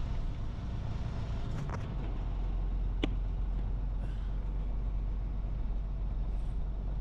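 Steady low rumble of a semi truck, with a faint click just under two seconds in and a short sharp tick about three seconds in.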